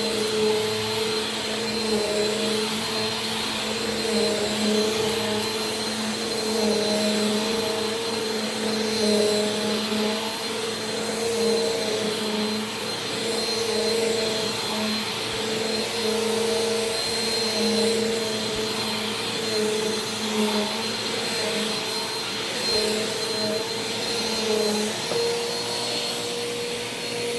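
Bissell PowerForce Compact Turbo upright vacuum cleaner running steadily while being pushed over carpet: a continuous motor whine over the rush of air, its pitch wavering slightly with the strokes. Near the end the tone steadies and the lower hum drops away.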